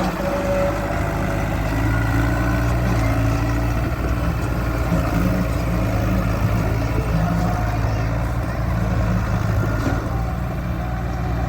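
Farm tractor's diesel engine running steadily at low revs.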